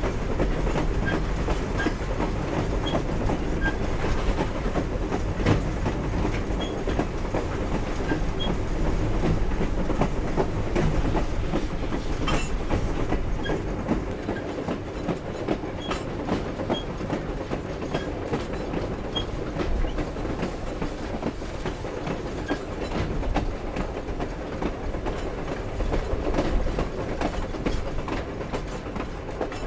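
Cars of the Grand Canyon Railway steam train rolling along the track: a steady rumble with wheels clicking over the rails and the cars clanking and rattling, and one sharper knock about twelve seconds in.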